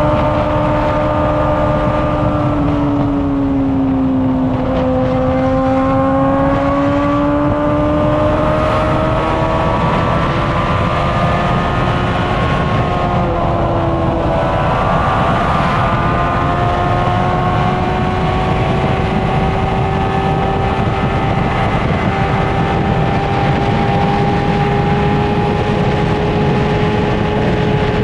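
Honda CBR600RR's inline-four engine through an aftermarket Toce exhaust, running steadily at road speed. Its pitch dips slightly a few seconds in, then climbs slowly and evenly as the bike gathers speed, over a steady rush of wind and road noise.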